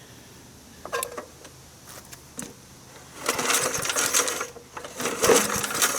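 Metallic clattering and rattling in uneven bursts from about three seconds in, after a couple of single clicks.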